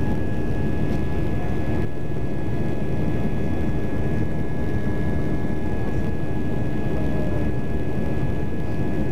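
Steady cabin noise of an Airbus A320-200 in its climb after takeoff: a constant rumble of engines and airflow with a thin, steady high whine running through it.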